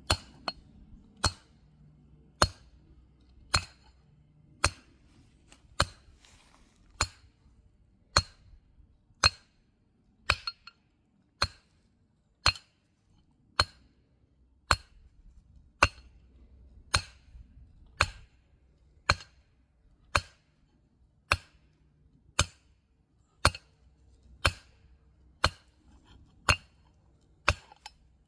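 Hammer blows on metal while forging, struck at a steady pace of a little under one a second, each a sharp ringing clink.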